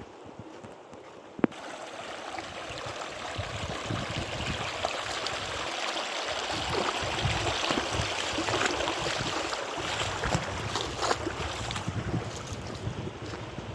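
River water rushing, a steady dense noise that swells louder over the first several seconds and then holds. A single sharp click about a second and a half in.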